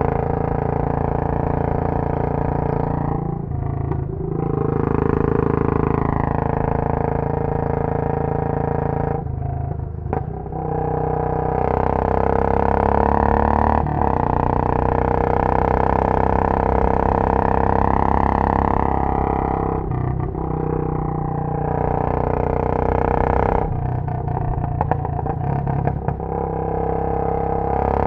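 Royal Enfield Bullet 500's single-cylinder engine through a Punjab long bottle silencer, ridden hard: it pulls steadily on the throttle, and its note drops away several times as the throttle is closed. Near the end comes a run of crackles from the exhaust while off the throttle.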